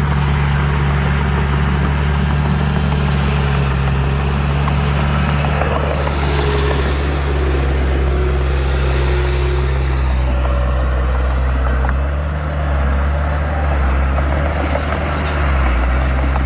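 Heavy diesel earthmoving machine engine running steadily with a deep drone, its note dipping briefly a couple of times near the end.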